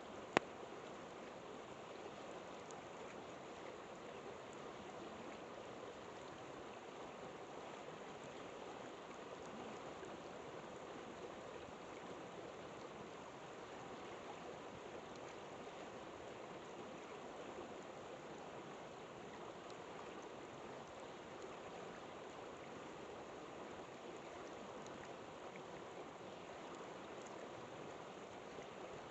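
River water flowing steadily, with one sharp pop about half a second in.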